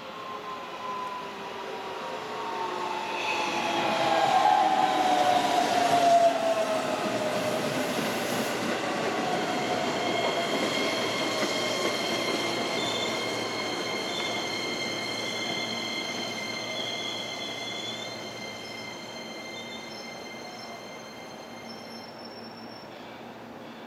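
Keihan 10000-series electric train slowing as it passes close by: its motor whine falls steadily in pitch and is loudest a few seconds in. Then come steady high-pitched squealing tones from the wheels and brakes, which cut off suddenly near the end.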